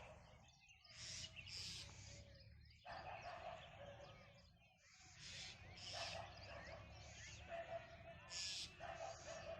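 Faint mixed birdsong: several birds chirping in short, repeated calls that come in clusters about once a second.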